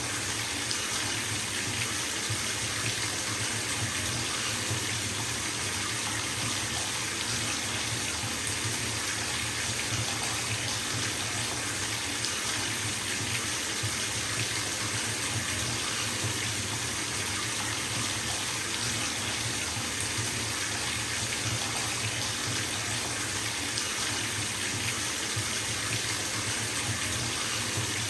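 Bathtub filling from a running tap: water pouring steadily into the tub with an even hiss and a low rumble beneath.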